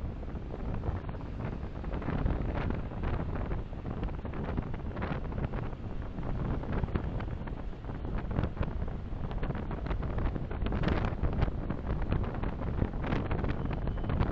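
Steady road and wind noise from a car driving along, picked up by a dashcam microphone, with a rumble underneath and many short crackles throughout.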